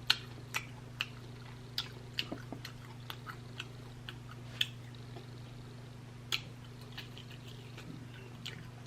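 Close-miked mouth sounds of a person chewing food: scattered soft smacks and wet clicks, one or two a second, over a steady low hum.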